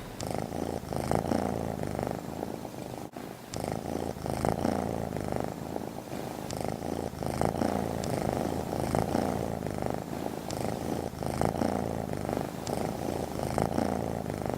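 Domestic cat purring close up, a steady low rumble that swells and eases about once a second with its breathing.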